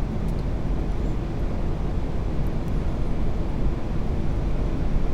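Airbus A380-800 cockpit noise on final approach with gear down and flaps full: a steady, low rush of airflow and engines.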